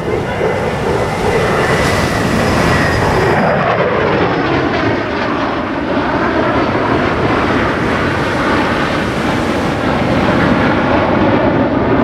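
Jet roar of USAF Thunderbirds F-16 fighter jets flying past: a loud, steady rush with a high whine in the first few seconds and a sweeping, phasing tone as they move across.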